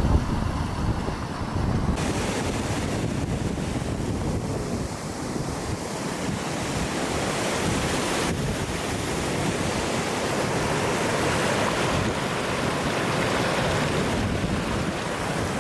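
Small waterfall of warm spring water splashing down a cliff into the sea, a steady rush of water mixed with wind on the microphone. The sound changes abruptly about two and eight seconds in.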